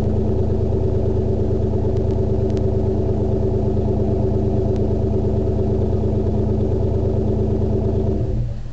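1996 Jeep Grand Cherokee's 5.2-litre V8 exhaust idling steadily through an Aero Turbine 2525 muffler, then dropping away sharply near the end.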